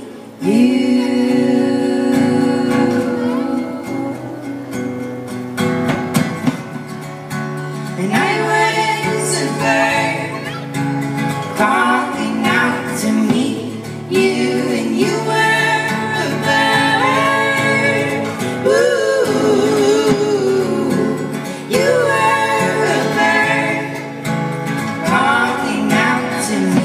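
A band's song: singing over guitar.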